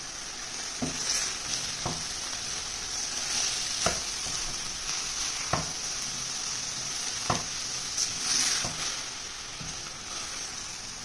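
Minced mutton keema sizzling in oil in a pan as it is stirred, with a steady hiss and a dozen or so scattered knocks of the stirring utensil against the pan. The oil has separated from the masala: the meat is frying rather than simmering.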